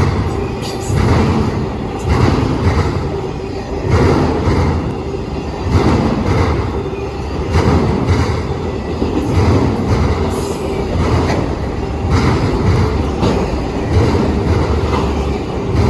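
Freight cars of a long mixed train rolling past: a steady rumble with wheels knocking over rail joints about once a second.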